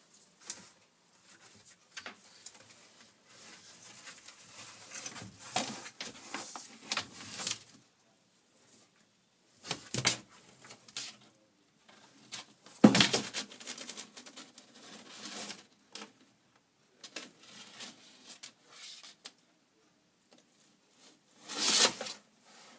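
Savannah monitor eating a whole tilapia: irregular wet crunching, clicking and smacking as it bites and works the fish down, with louder noisy bursts about thirteen seconds in and again near the end.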